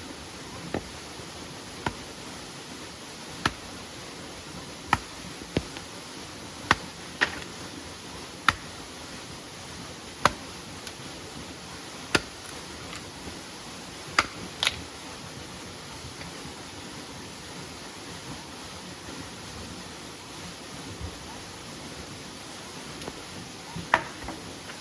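Steady rain noise with a series of sharp, irregular knocks, one every second or so, that stop about halfway through, with one more near the end.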